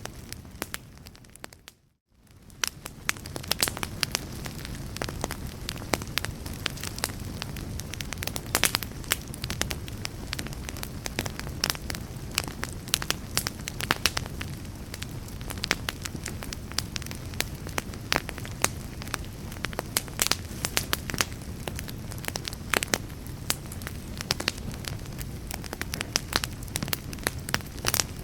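Fire crackling: frequent sharp pops and snaps over a low steady rumble. About two seconds in, the sound briefly fades out to near silence and then fades back in.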